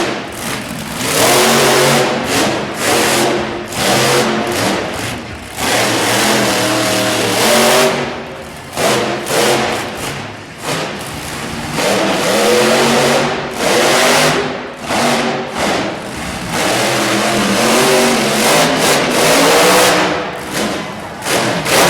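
Monster truck engine revving hard over and over, its pitch climbing and dropping in repeated surges with brief easings between them.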